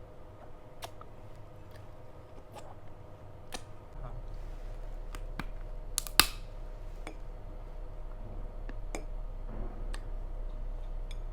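Person eating a mutton curry meal: scattered small sharp clicks and mouth sounds, with one much louder sharp click about six seconds in.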